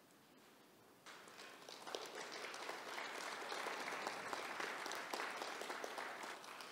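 Audience applauding, starting suddenly about a second in and building to steady clapping.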